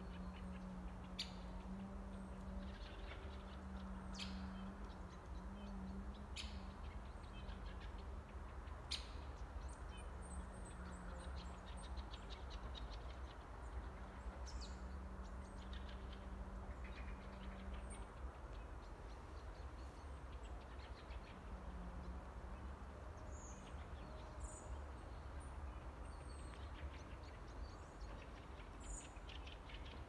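Small birds calling in bare woodland: short, high chirps and quick trills come and go throughout. Underneath there is a steady low hum, which fades out about two-thirds of the way through, and a faint low rumble.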